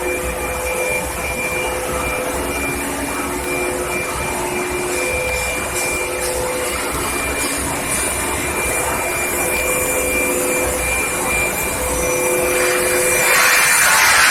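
Induction heating furnace line for steel pipe running steadily: a continuous machine noise with a constant high whine and lower hum tones that come and go, over an intermittent low rumble.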